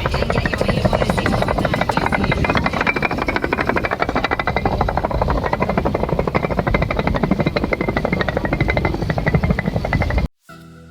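A machine running with a fast, even pulsing rattle that cuts off suddenly near the end, after which background music with held tones comes in.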